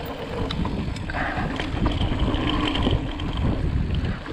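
Wind rumbling on the camera microphone while an Ibis Ripley mountain bike rolls over rock, with a few clicks and knocks from the bike.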